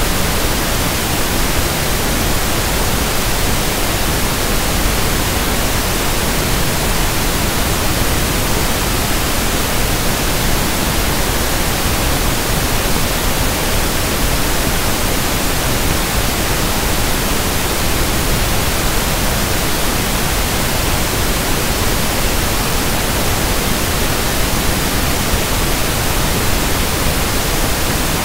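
Steady synthesized pink noise (1/f noise): an even, unchanging hiss spread across low and high pitches alike.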